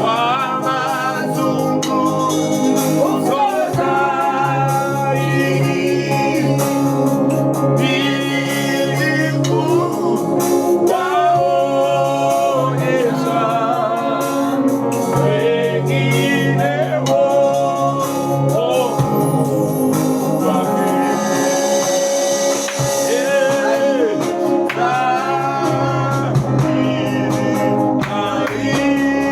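Gospel music: a lead voice singing melodic lines over a band, with a steady percussion beat throughout.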